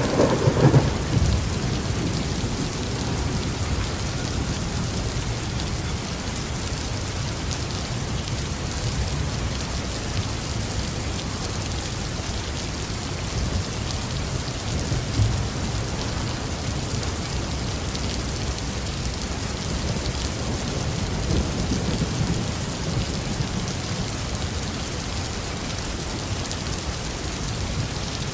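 Heavy rain falling steadily on a roof, with a roll of thunder dying away in the first second and another low rumble of thunder swelling past the middle.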